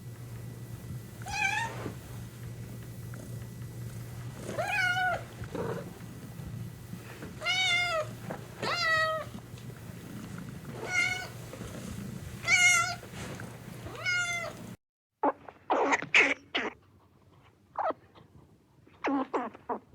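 Domestic cat meowing repeatedly, about seven separate drawn-out meows over a low steady hum. About three quarters of the way through, the sound cuts to a run of short, sharp noisy bursts.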